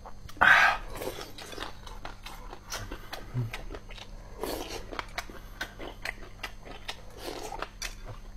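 Close-miked chewing of sour-and-spicy boneless chicken feet: a run of small crisp crunches and wet clicks as the tendon and cartilage are bitten, with louder bites about half a second in, midway, and about seven seconds in.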